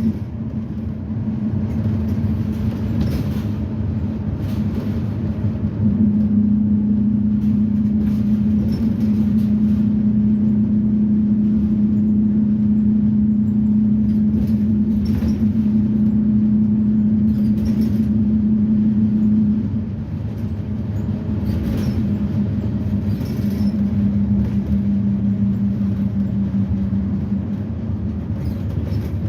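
2010 Blue Bird Vision school bus under way, its propane-fuelled GM Vortec V8 and drivetrain giving a steady drone over low road rumble. A steady hum holds from about six seconds in, drops away at about twenty seconds, and comes back briefly a few seconds later.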